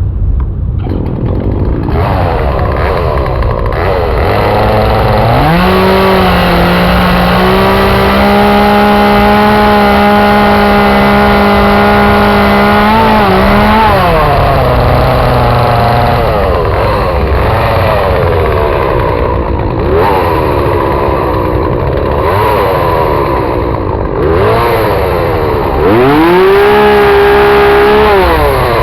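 Gas chainsaw running at varying speed while carving a trident maple trunk. It revs up and holds at high speed for about eight seconds, drops back about halfway through, then wavers and revs high again near the end.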